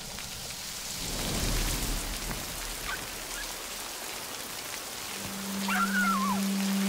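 Heavy rain falling and splashing on surfaces, with a low rumble of thunder in the first half. A little after five seconds in, a steady low note of background music comes in, and a brief wavering high whine sounds near the end.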